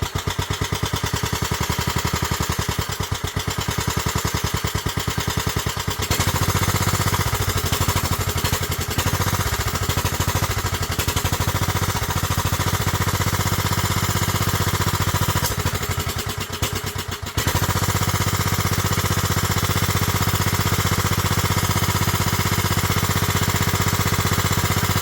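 1998 Kohler Command 16 hp lawn mower engine running just after being started, back to life after a year parked. Its sound fills out about six seconds in, sags briefly about two-thirds of the way through, then picks up again.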